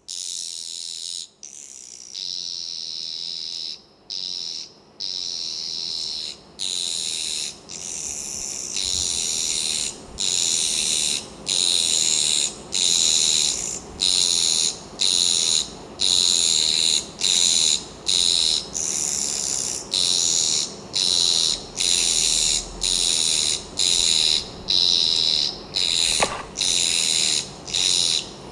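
Nestling birds begging with high-pitched chirping calls in repeated bursts about once a second, growing louder and more regular after about eight seconds.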